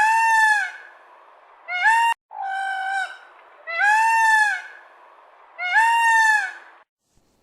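Peacock calling: five loud, ringing calls in a row, each lasting half a second to a second, most with a pitch that rises and then falls. One call about two seconds in is cut off abruptly.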